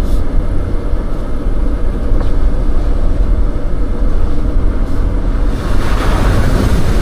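Off-road vehicle driving through a trail obstacle: a dense, low engine-and-drivetrain rumble, with a louder rushing noise joining about five and a half seconds in.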